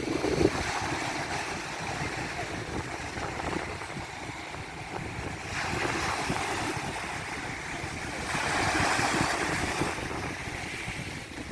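Sea surf washing onto the beach, swelling twice, about six and about eight seconds in. Strong wind buffets the microphone.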